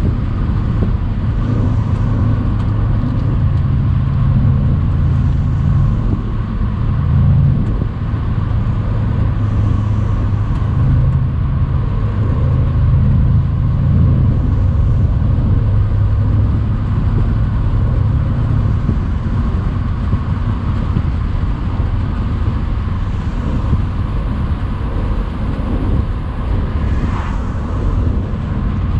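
Mercedes-AMG C63's twin-turbo 4.0-litre V8 running under light load at a steady cruise, its low drone swelling and easing a little, over tyre and wind noise with the roof open.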